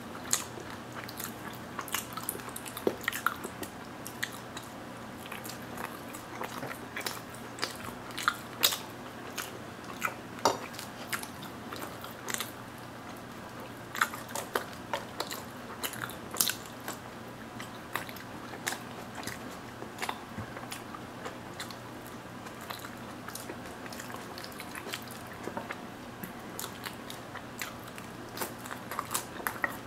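Close-up eating of crispy naan bread in tomato sauce and melted mozzarella: biting and chewing with crunches and wet mouth clicks, scattered irregularly throughout.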